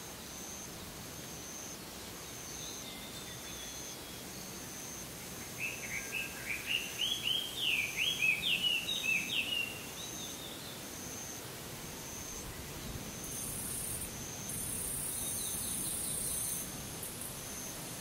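Evening woodland pond ambience. A songbird sings one quick phrase of rising and falling whistled notes in the middle, the loudest sound here, while a short high insect note repeats about once a second throughout. A high insect buzz comes in for a few seconds near the end.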